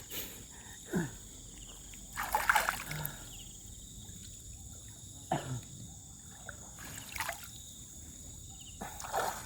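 River water dribbling and splashing off a fishing net as it is lifted from the water, in a few short splashes, over a steady high whine of insects.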